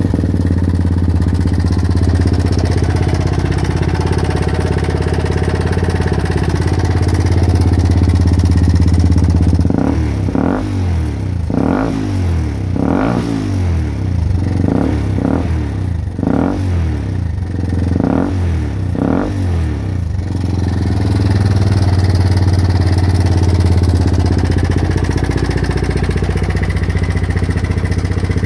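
Fuel-injected 2010 Daelim Roadwin motorcycle engine through an Art aftermarket end can, just started and idling steadily, then about halfway through given a run of quick throttle blips before settling back to idle. A slight mechanical clatter under the exhaust note, which the owner puts down to noisy tappets.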